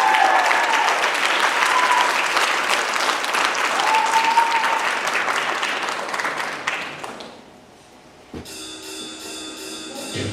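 Audience applause with a few cheers, fading out about seven seconds in. About a second later a band comes in sharply with a sustained chord and a quick repeated pattern of high notes.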